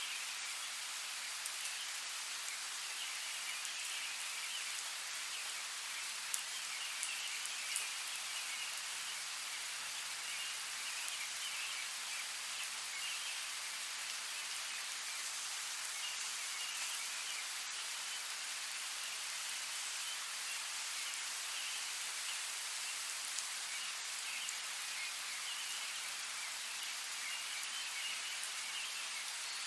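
Steady rain falling, an even hiss with occasional louder drops.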